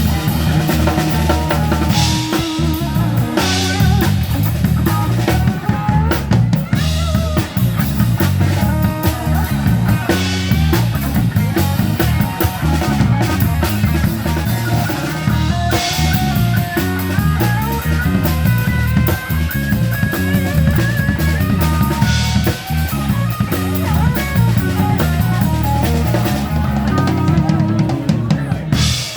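Live band playing an instrumental break: a drum kit with snare and several cymbal crashes, a steady bass line, and a guitar playing melody lines over it.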